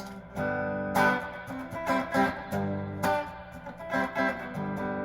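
Donner DTC 100 Telecaster-style electric guitar on its bridge single-coil pickup, played through a tube amp: chords strummed and let ring, a new strum about every second.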